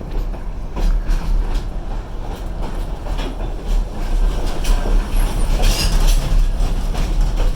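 Passenger train running, heard from on board: a steady low rumble with frequent clacks and knocks from the wheels and car, and a brief high-pitched noise about six seconds in.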